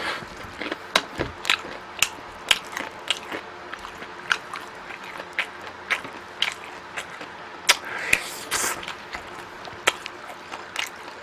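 Close-miked eating: a person chewing food, with sharp wet mouth clicks coming irregularly about twice a second.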